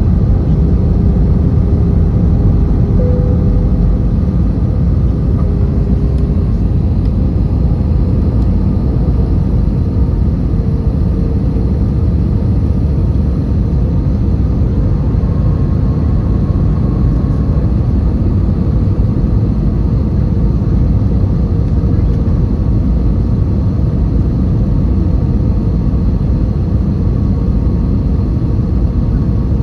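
Steady rumble of an Airbus A320's engines and airflow heard from inside the passenger cabin, with faint steady engine tones above it.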